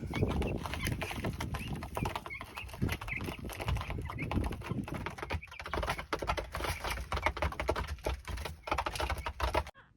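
Young chickens peeping in short high calls over many quick, irregular taps, typical of chicks pecking at feed, with a low rumble underneath. The sound cuts off sharply near the end.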